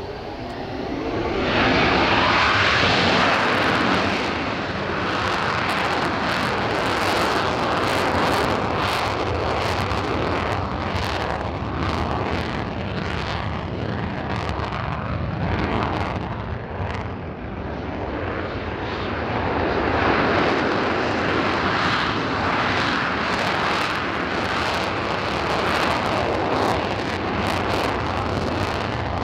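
Military jet running at high power, a loud jet roar with ragged crackle that swells about two seconds in, eases slightly in the middle and builds again later.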